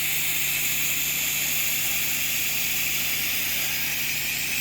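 Soft-wash spray rig running steadily: a constant pump hum under a high, even hiss of spray.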